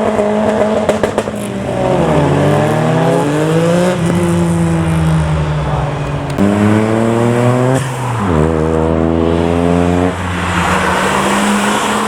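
Modified car engine being revved hard as the car pulls away: the revs climb, drop sharply about four seconds in and again about eight seconds in, as at gear changes, and rise again in between.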